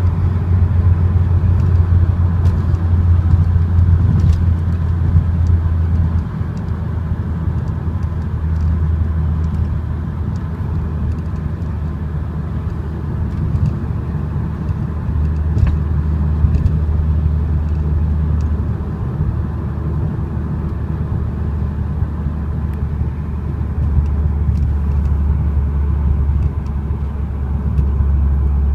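Audi TT 225's 1.8-litre turbocharged four-cylinder cruising on a catless 3-inch turbo-back exhaust, with a steady low exhaust drone. The note shifts slightly in pitch a few times as engine speed changes.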